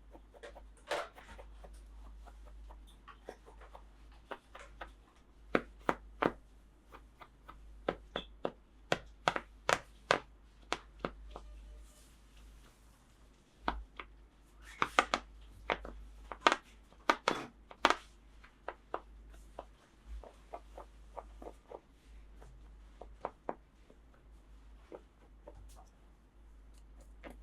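Hands handling plastic toy pieces: a run of irregular sharp clicks and taps, busiest in two spells, about a third of the way in and again past the middle, over a faint low hum.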